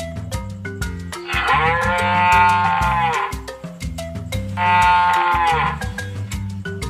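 A cow mooing twice: a long moo of about two seconds, then a shorter one, over background music with a steady beat.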